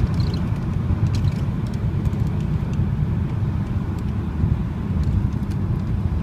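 Audi TT 225's turbocharged 1.8-litre four-cylinder on its stock exhaust while cruising: a steady low engine and road rumble.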